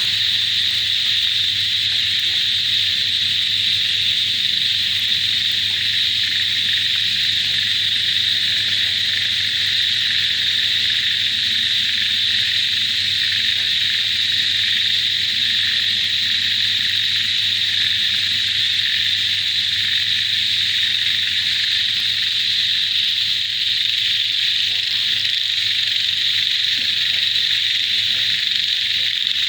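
Dense, steady chorus of calling frogs and insects, merged into one continuous high-pitched trill without a break.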